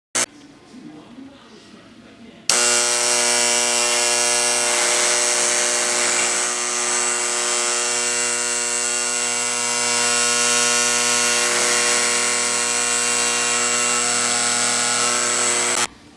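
American Flyer 771 operating stockyard's electromagnetic vibrator buzzing steadily, the loud mains-frequency buzz that shakes the cattle along. It switches on about two and a half seconds in and cuts off suddenly near the end, after a single click at the very start.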